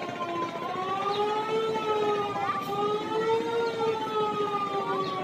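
A long, continuous siren-like horn blast whose pitch slowly rises and falls, sounding throughout over a noisy background din.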